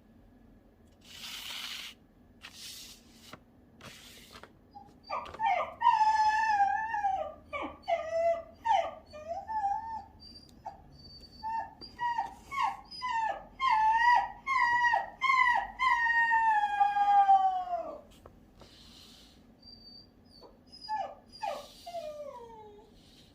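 A dog howling and whining. Long wavering calls are broken by runs of short yelping cries, with the last long call falling in pitch. After a pause, a few shorter falling whines come near the end.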